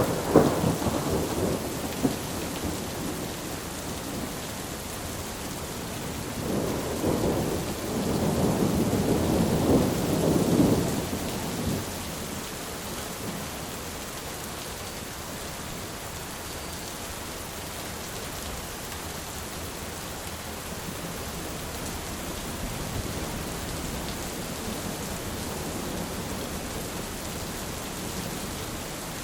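Steady heavy rain with thunder: a sharp thunderclap right at the start that rumbles away over a couple of seconds, then a longer rolling peal about six seconds in that swells and dies away by about twelve seconds.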